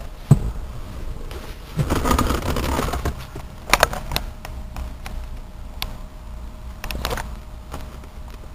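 A few sharp clicks and a short scrape of things being handled inside the car's cabin, over the low steady rumble of the Jeep's 4.0-litre straight-six idling.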